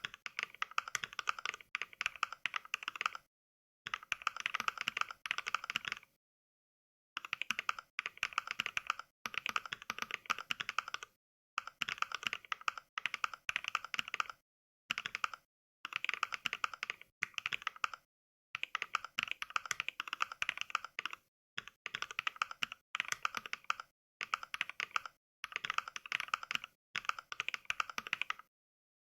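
Fast touch-typing played through the Mechvibes NK Cream sound pack: sampled clacks of NovelKeys Cream linear mechanical switches in quick runs. The runs last one to three seconds and are broken by short, completely silent pauses.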